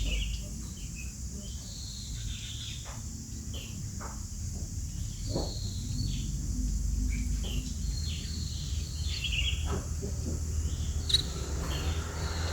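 Small sparrows chirping: many short, scattered chirps over a steady low rumble, with one sharp click near the end.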